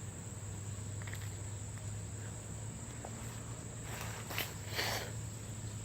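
Insects singing in a steady high drone over a low hum, with a short rustle of footsteps through brush about four seconds in.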